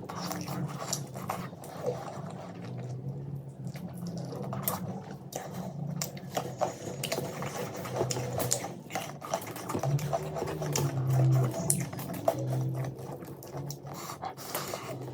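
Close-miked chewing and eating: a run of wet mouth clicks and smacks, steady throughout.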